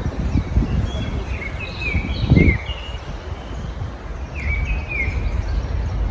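Several songbirds give short, high chirps and quick downslurred notes in two clusters, over a steady low rumble. A louder low thump comes about two seconds in.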